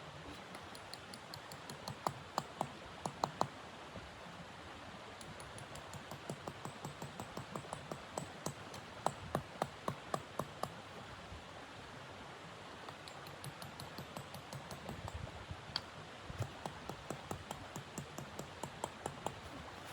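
Footsteps crunching in snow, about two to three steps a second, in three runs separated by pauses, over a steady hiss.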